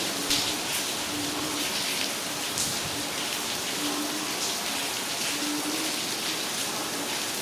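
Heavy rain falling steadily, with single drops splashing sharply now and then. A short low tone repeats about once a second underneath.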